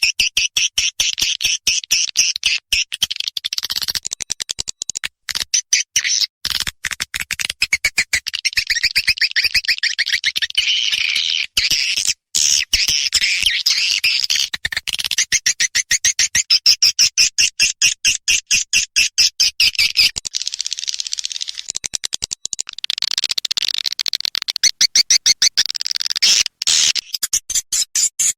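Swiftlet lure call recording: edible-nest swiftlets twittering in rapid, dense, high-pitched chirps and clicks, with a few brief breaks. It is the kind of call sound played in swiftlet houses to draw birds in to roost.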